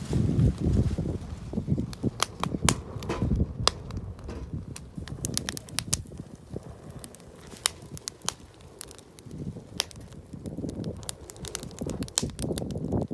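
Campfire crackling: burning wood gives off irregular sharp pops and snaps, several a second at times, over an uneven low rumble.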